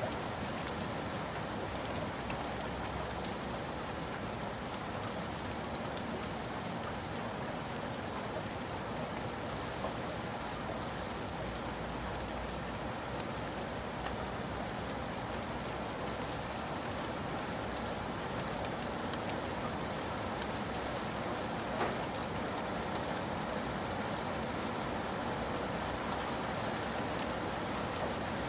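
Steady rain falling, with many small drops pattering on a surface and one slightly sharper drop about 22 seconds in.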